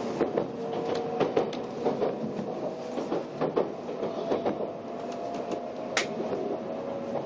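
Interior sound of an N700-series Shinkansen car on the move: a steady rumble and hiss, with several tones that step up and down in pitch, and irregular clicks and knocks. A sharper click comes about six seconds in.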